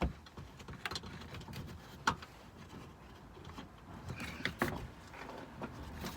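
Handling noises from refitting a car's under-engine protection tray: scattered clicks and knocks as the tray and its fixings are moved into place, with sharper knocks about two seconds in and about four and a half seconds in.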